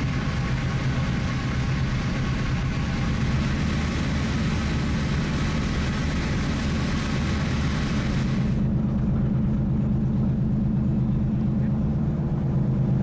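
A ship's engines running steadily as a low hum, with a hiss of wind and water over it; the hiss drops away suddenly about two-thirds of the way through, leaving the engine hum.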